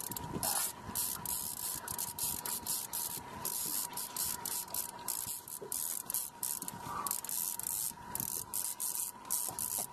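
Fishing reel drag giving line in irregular rasping, hissing spurts as a hooked spring chinook salmon runs away from the net.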